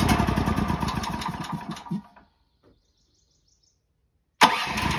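Portable gas generator engine firing briefly and dying out, then starting up again abruptly near the end: it catches but won't keep running while unchoked.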